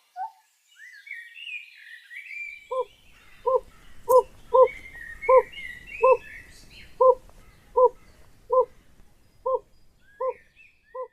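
An owl gives a series of about a dozen short, evenly spaced hoots, roughly one every three-quarters of a second and slowing slightly toward the end. Songbirds twitter higher up during the first half.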